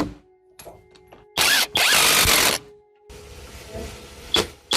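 A hand-held power tool run in short bursts: a brief one about a second and a half in, straight into a longer one lasting under a second, then a short blip near the end, with a faint steady hum underneath the first half.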